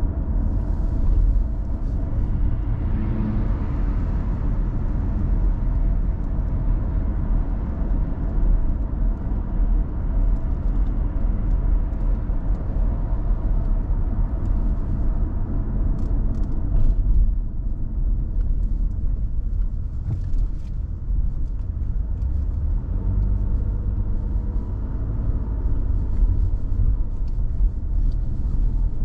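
A car driving along: steady low engine and road rumble.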